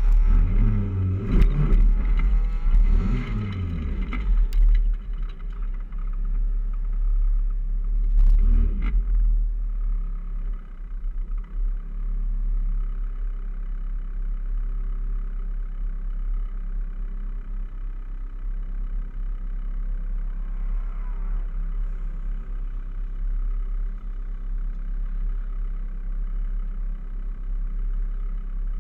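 Honda Civic engine revved a few times in the first four seconds and once more about eight seconds in, then idling steadily with the car stopped.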